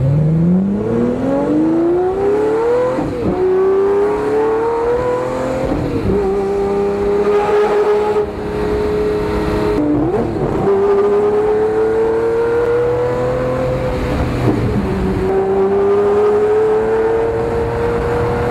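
A car's engine pulling hard under acceleration, heard from inside the car. Its pitch climbs steadily, then several times drops back and climbs again as the car gathers speed.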